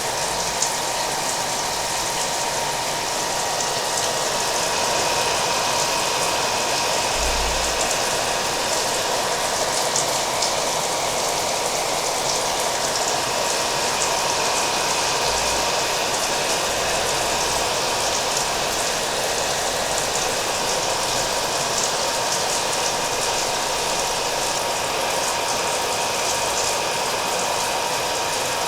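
Hair dryer running steadily, a constant rushing hiss with a thin steady whine, mixed with the sound of falling rain.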